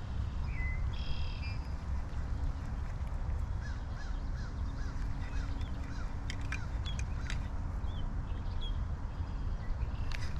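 Wind rumbling on the microphone, with a bird calling a run of short rising-and-falling chirps, about two a second, in the middle. A few sharp clicks come near the end.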